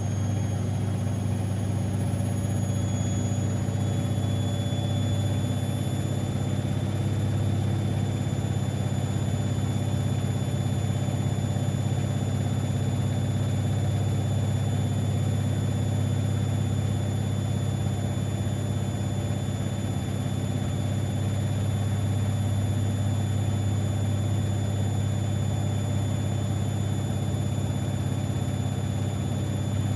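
Siemens Extraklasse XLs 140 A washing machine spinning steadily, with a strong low motor and drum hum and a faint high whine that rises slightly in pitch in the first few seconds and then holds.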